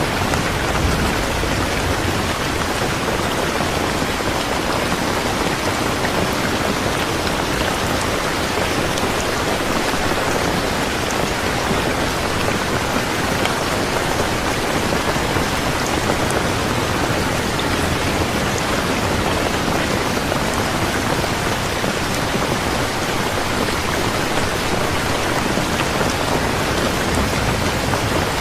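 Steady heavy rain falling on a surface, a dense, even hiss of raindrops.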